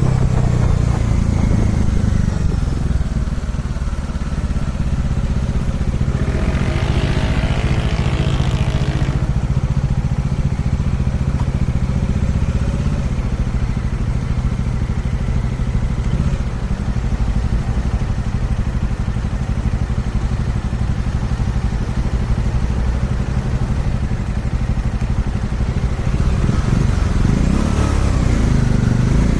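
Kawasaki Dominar 400 UG2's single-cylinder engine running at a steady cruise, heard from on the bike. About six seconds in, a louder rushing sound with some pitch in it rises over the engine for a few seconds and then fades.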